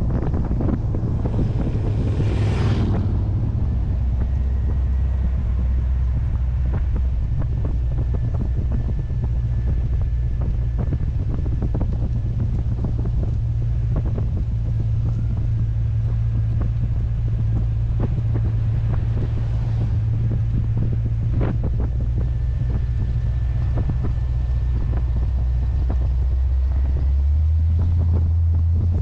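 Heavy wind buffeting and crackling on the microphone over the steady low drone of a Corvette's 350 small-block V8 at cruise. A brief whoosh comes about two seconds in, and near the end the engine drone steps up in pitch.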